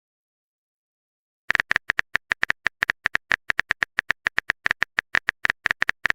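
Silence, then from about a second and a half in, a fast, uneven run of short sharp clicks, several a second: a phone keyboard typing sound effect.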